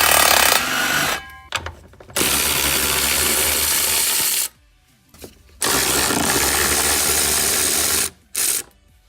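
Power tool running in bursts of a couple of seconds each, two long runs and shorter ones around them, working fasteners loose while the driveshaft is taken off the car.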